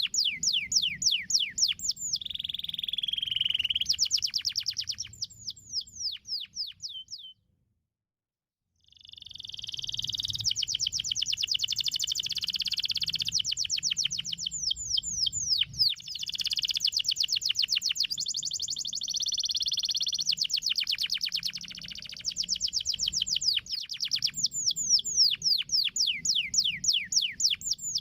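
Domestic canary singing: fast trills of rapidly repeated downward-sweeping notes alternating with rolling, steadier phrases. The song cuts off suddenly into about a second and a half of silence around seven seconds in, then resumes.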